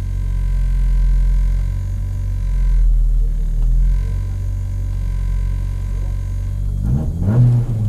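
Rally car's engine idling steadily, heard from inside the cabin, then revved up and down near the end.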